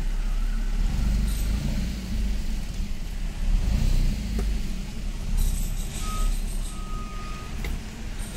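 Small car's engine running at low revs, heard from inside the cabin as the car creeps slowly through a reversing turn. Two short faint high beeps sound about six and seven seconds in.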